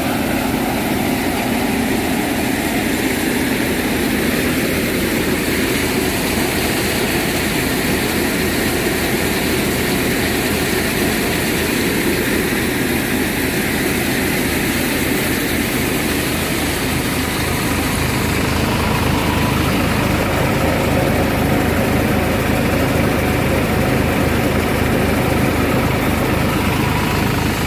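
Farmtrac 45 tractor's diesel engine running steadily, with the continuous whirring noise of the thresher it drives; it grows slightly louder about two-thirds through.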